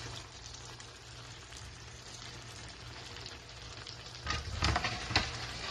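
Chicken livers sizzling in hot oil and onion-tomato masala in a frying pan, with a few spatula scrapes and knocks against the pan about four to five seconds in.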